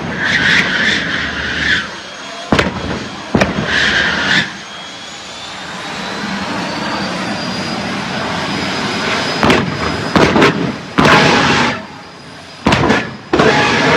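Jet engine of a jet-powered car running with a whine that slowly rises in pitch, broken by sharp bangs and short bursts of roaring, some of them in quick succession near the end, as in an afterburner flame show.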